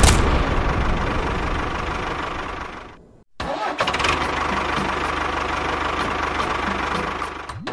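Engine running steadily. It cuts off abruptly about three seconds in and comes back a moment later.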